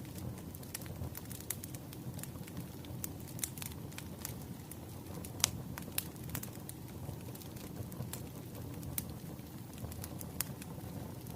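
Wood fire crackling: scattered sharp pops and snaps over a steady low rumble of burning logs, the loudest pop about five and a half seconds in.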